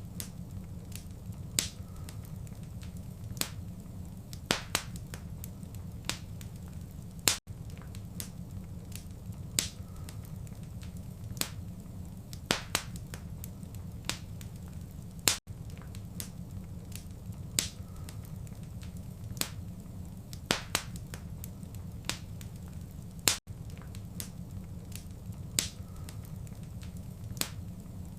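Wood fire crackling in a fireplace: sharp, irregular pops and snaps over a steady low rumble of the burning.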